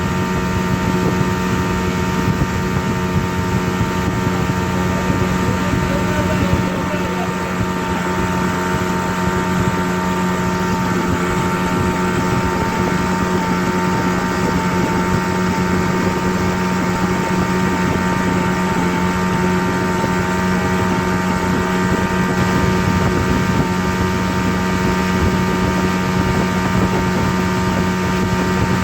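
Steady, unchanging drone: an even rushing noise with a constant low hum and several fainter steady tones above it, with no breaks or changes.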